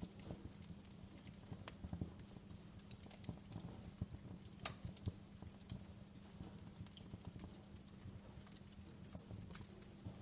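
Wood fire crackling: irregular sharp snaps, a few louder than the rest, over a soft steady low noise.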